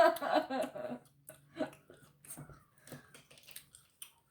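Chewing food with scattered short mouth clicks, after a voice trails off in the first second.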